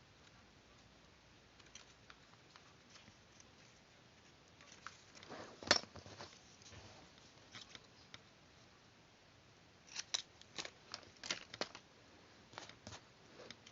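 Scissors cutting paper: scattered quiet snips, one loud snip near the middle, then a quick run of snips near the end.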